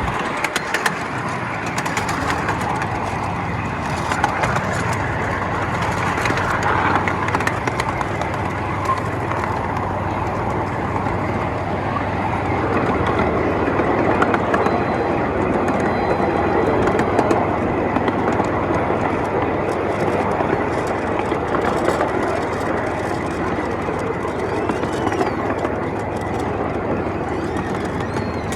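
Miniature ride-on train running along its track: a steady rumble of wheels on rail with scattered clicks.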